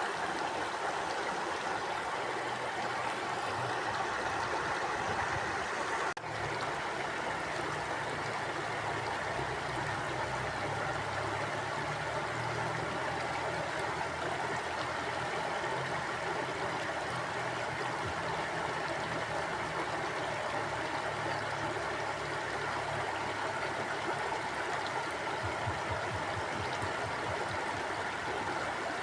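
Mountain river flowing: a steady, unbroken rush of running water, with a brief dip in level about six seconds in.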